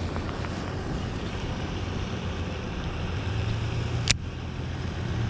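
Wind buffeting the microphone as a steady low rumble, with one sharp click about four seconds in.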